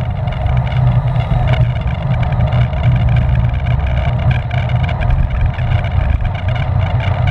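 Wind rushing and buffeting over the microphone of a rider's camera on a racing bicycle moving at speed, a steady low rumble that rises and falls.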